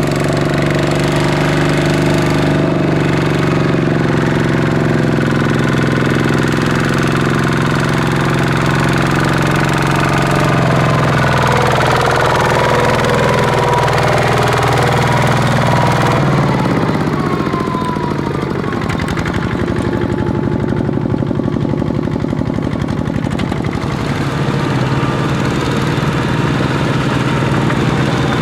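Kubota ZT155 single-cylinder diesel engine of a small farm tractor running under load, a steady note for about the first half. Past the middle its note breaks off and it carries on a little quieter with a rapid chugging beat.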